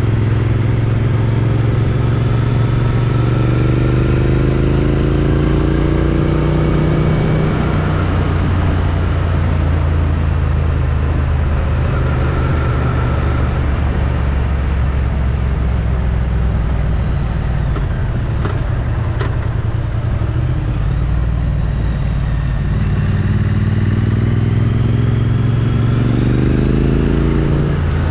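Triumph Street Twin's 900 cc parallel-twin engine through its stock exhaust, heard from the rider's helmet over rushing wind. It rises in pitch as it pulls for the first several seconds, eases off into a stretch where wind noise dominates, and picks up and climbs again in the last few seconds.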